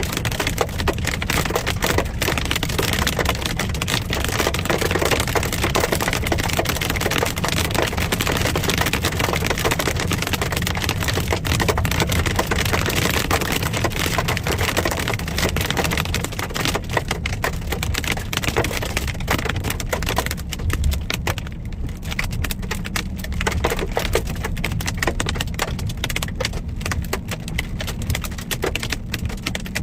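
Hailstones clattering densely on a car's roof and windshield, heard from inside the moving car over a steady low road rumble. The clatter thins out to scattered hits about two-thirds of the way through.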